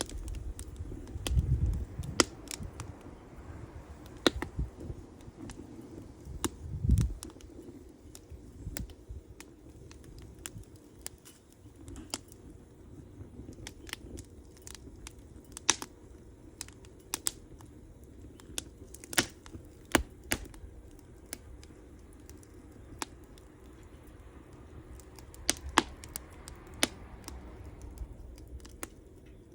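Wood campfire crackling, with irregular sharp pops and snaps over a soft steady burn, and two brief low rumbles about 1.5 and 7 seconds in.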